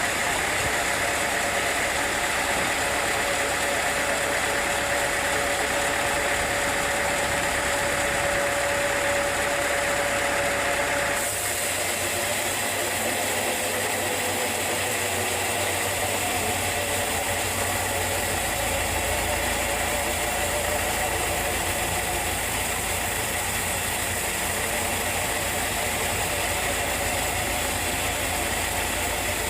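Sawmill machinery running steadily with a rattling, engine-like drone; about a third of the way through the sound changes abruptly and settles a little quieter.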